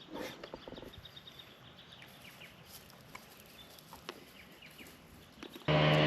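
Quiet bush with faint bird chirps, short and falling in pitch. Near the end a boat motor cuts in abruptly and runs loud and steady.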